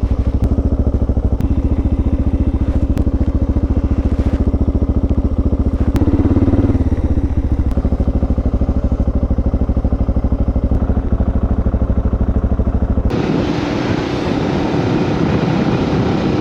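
Suzuki DR650's single-cylinder four-stroke engine running steadily as the motorcycle rides along, a dense, even thumping. About thirteen seconds in the sound changes abruptly to a rougher, noisier engine sound.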